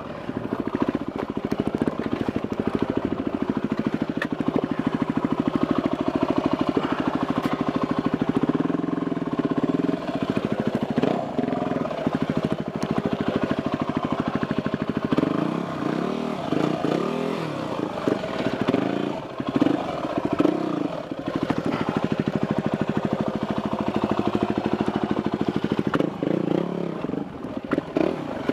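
Yamaha WR250R single-cylinder dirt bike engine running at low speed over rough, rocky ground. It holds a steady note at first, then the revs swing up and down repeatedly in the second half as the throttle is blipped on and off.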